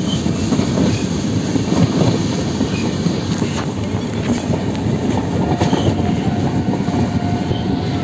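Passenger train running on the rails, heard from on board: a steady rumble of wheels and coaches. A faint thin squeal joins in from about five and a half seconds in.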